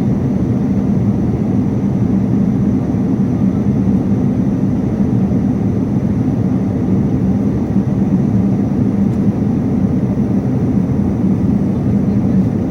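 Airliner cabin noise in flight: a steady, even low roar of engines and airflow, with a faint high whine held on one note.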